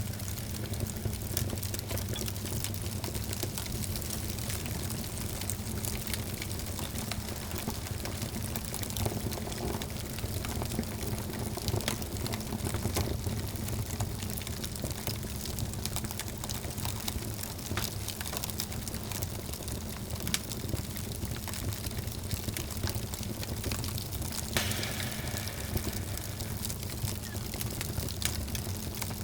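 Wood fire burning in a fireplace, crackling with many small sharp pops and snaps over a low steady rumble and hiss.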